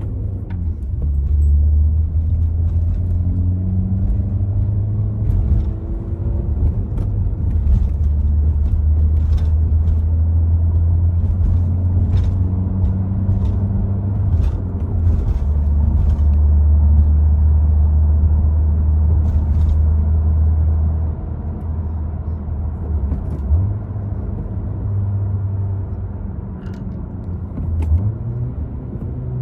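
MBRP aftermarket exhaust on a Honda Civic's 1.5-litre turbocharged four-cylinder, running with a deep low drone. The note holds steady for long stretches, shifts pitch a few times and steps up near the end, with scattered sharp clicks over it.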